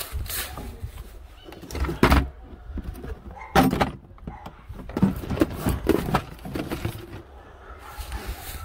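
Several separate clunks and knocks a second or so apart, over a steady low rumble.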